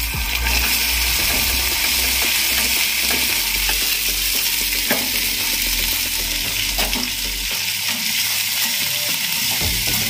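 Chopped okra sizzling in hot oil in an iron kadhai; the sizzle starts as the okra is tipped in and holds steady, with a few light clicks through it.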